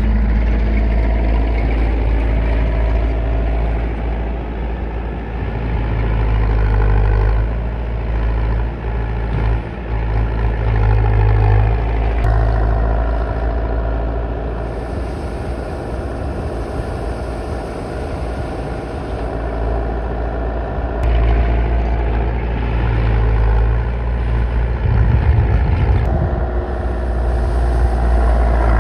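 Engine running steadily with a deep low hum, its tone shifting a few times.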